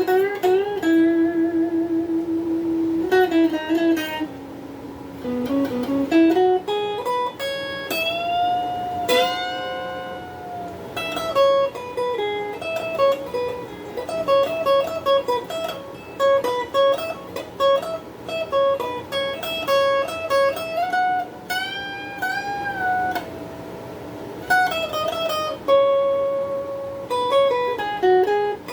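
Donner Q1 HSS strat-style electric guitar played through a small amp, a single-note melodic lead line with string bends and vibrato on the held notes.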